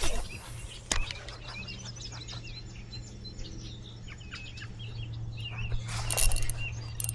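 Small birds chirping, with many short high calls overlapping through the middle stretch. There are two sharp knocks near the start and a brief louder rush of noise about six seconds in.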